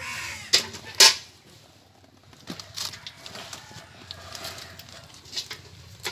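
A short bird call right at the start, then two sharp knocks about half a second apart, followed by faint scattered clicks.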